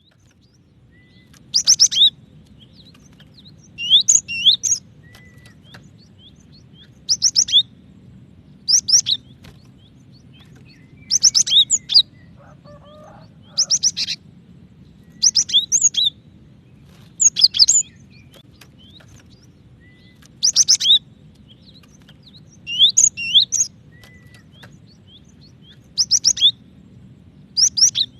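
Female cinereous tit (gelatik batu) calling to a male: short, high bursts of a few quick notes, repeated about every two seconds over a faint steady low hum.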